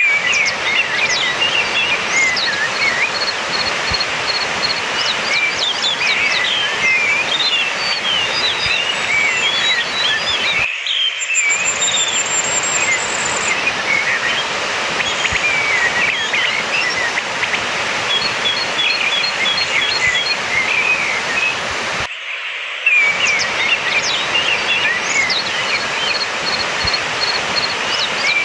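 Orange-headed thrush singing a rapid, varied run of chirps, whistles and short trills over a steady hiss, as used to lure or train a captive bird to sing.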